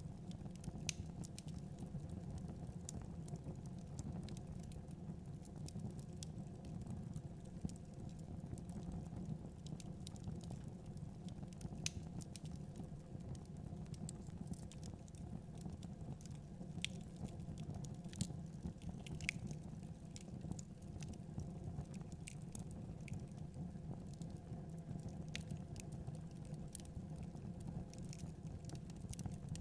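Wood fire crackling, with frequent small, irregular pops and snaps over a steady low rumble.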